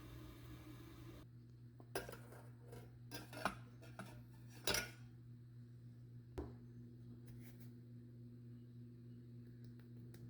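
Several short clinks and knocks of dishes and utensils being handled, the sharpest a little under five seconds in, over a steady low electrical hum.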